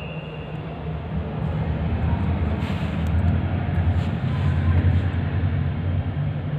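Low, steady engine rumble of a nearby motor vehicle, swelling in the middle and easing off near the end, with a few faint small clicks.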